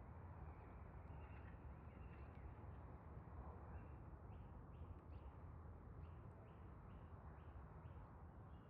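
A bird calling faintly: a run of about eight short, repeated high notes, roughly two a second, starting about halfway through, over a steady low rumble.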